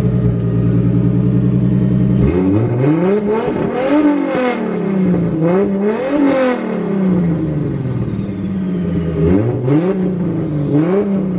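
Built 2JZ inline-six in a Nissan 240SX idling steadily, then blipped with a series of light revs that rise and fall. It is running again on a fresh gallon of E85 with fuel pressure back up, after cutting out on the drive home, which the owner now suspects was simply running out of fuel.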